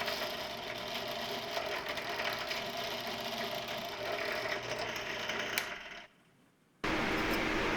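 Benchtop drill press running and drilling a hole: a steady motor hum with scratchy cutting noise. It cuts off suddenly about six seconds in, and after a short gap a similar steady machine sound starts again.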